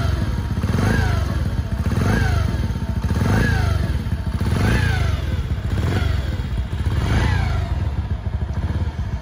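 A 2020 Mash 50's 50cc air-cooled single-cylinder engine, cold and just started, running while the throttle is blipped about six times, the pitch rising and falling roughly once every 1.3 seconds.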